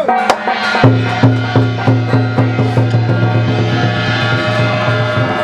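Percussion-led music with a steady drum beat of about three strikes a second over sustained ringing tones.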